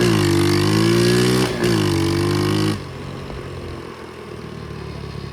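Pit bike engine revving hard under throttle, its note rising and dipping with two brief breaks, then the throttle closes a little under three seconds in and the engine drops to a much quieter low run.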